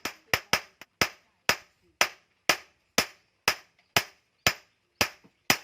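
Blacksmith's hand hammer striking steel on an anvil, forging bearing steel into a blade. The blows are sharp and even at about two a second, each with a brief ring, with a few quicker lighter taps near the start.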